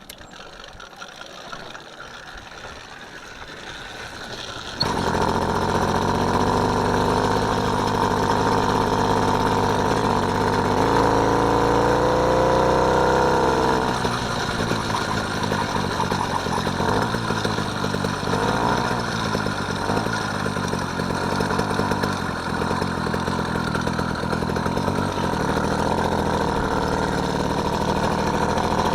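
Small engine of a motorised bike starting about five seconds in and running steadily, with its pitch rising as it is revved around the middle before dropping back.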